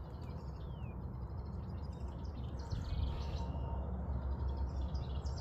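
Wild birds singing and chirping: short chirps, quick trills and downward-sliding whistles from several birds, over a steady low rumble.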